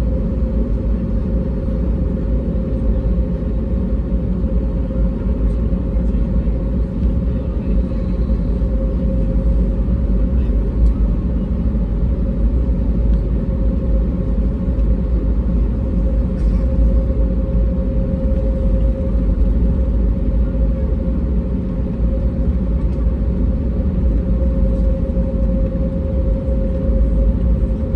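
Steady cabin noise of an Airbus A320neo in flight: a constant deep rumble of engine and airflow with a steady hum tone over it.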